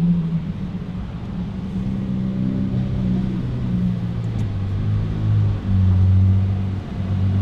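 Car engine running at steady, fairly low revs, its droning note stepping up and down in pitch and growing louder toward the end, with two brief dips in level.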